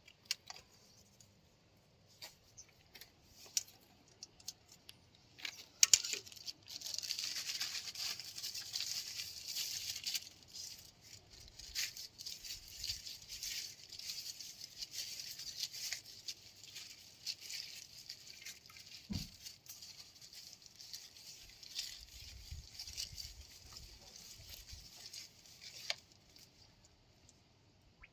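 Excavator engine oil running out in a steady splattering stream for about twenty seconds, starting with sharp clicks about six seconds in, with a dull knock partway through. Scattered taps and clicks of handling come before it.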